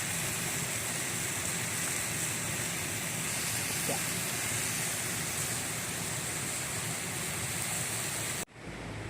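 Mountain stream rushing steadily, a continuous hiss of water. Near the end it cuts off abruptly and gives way to a quieter, lower rumble.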